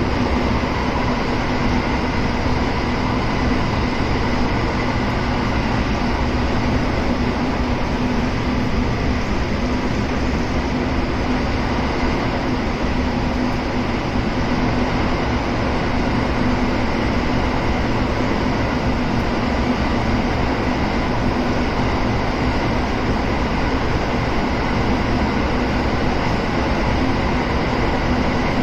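Kintetsu 7000 series electric train with early Hitachi GTO-VVVF control, running at a steady speed. Its wheels and motors make a steady rumble, with a few faint steady tones over it and no rising or falling whine.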